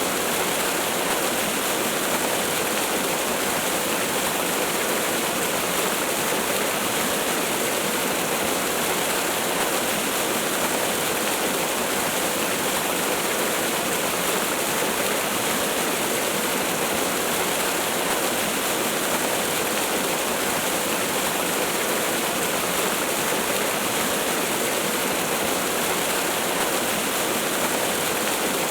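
Waterfall: falling water in a steady, unchanging rush, with little deep rumble.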